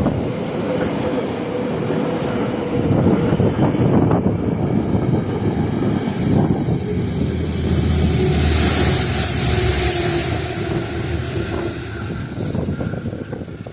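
Train passing by, a steady rumble and clatter of wheels on rail with a faint steady tone, loudest about two-thirds of the way through and dying away near the end.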